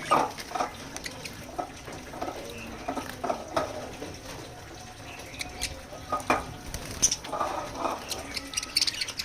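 Small pet parrots bathing: irregular splashing and pattering of water, mixed with short high chirps and squeaks.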